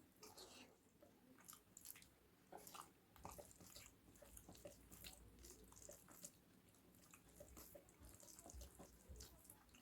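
Faint mouth sounds of a person eating a rice meal: wet chewing and smacking in short, irregular clicks.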